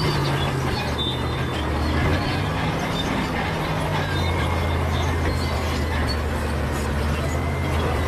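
Bulldozer's diesel engine running steadily under work, its engine note dropping a little about four seconds in.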